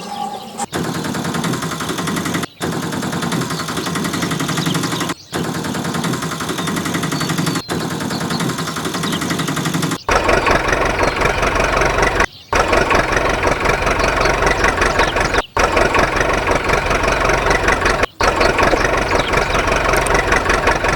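Engine running steadily, cut by short dropouts every two to three seconds. It turns louder and deeper about halfway through.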